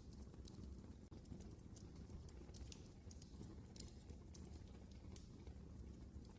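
Wood fire burning in a fireplace: faint, irregular sharp crackles and pops over a low, steady rumble of the flames.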